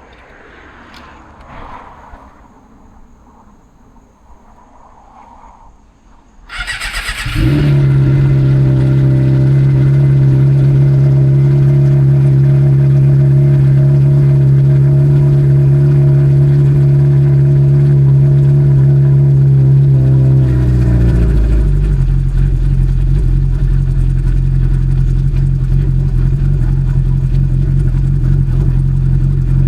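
Suzuki GSX-R750 inline-four motorcycle engine cranked and started about six seconds in, catching at once and idling steadily. Around two-thirds of the way through, the idle drops to a lower, deeper note and holds there.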